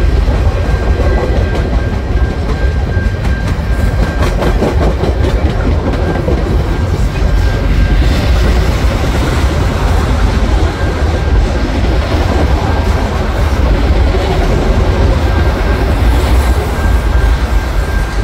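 Railway cars rolling past a level crossing: a steady, loud rumble of wheels on rail with repeated clickety-clack from the wheels over the rail joints. A steady high tone runs throughout, the crossing signal's bell ringing.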